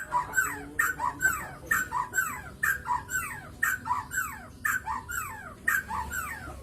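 White-rumped shama (murai batu) calling a rapid, rhythmic series of sharp descending notes, about two a second, an unusual-sounding call for the bird.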